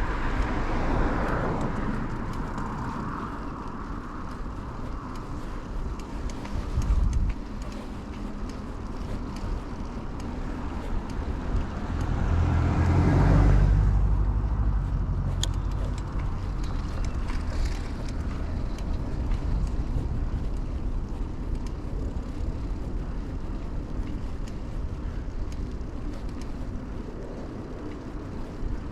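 Ride on a 2000 Kona Blast bicycle along roads with traffic: steady tyre and wind noise, with a motor vehicle passing close about thirteen seconds in, its sound swelling and then fading.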